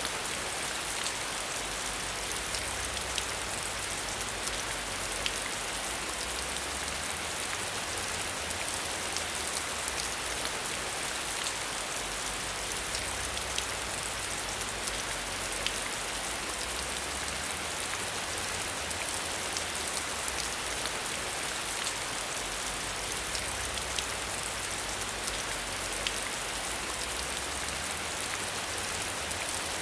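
Steady rain falling: an even hiss with many small drop ticks scattered through it, over a low rumble that swells and fades every few seconds.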